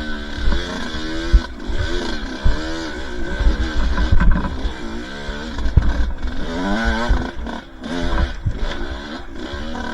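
Two-stroke dirt bike engine revving up and down over and over as it is ridden on a trail, with knocks and clatter from the bike over rough ground.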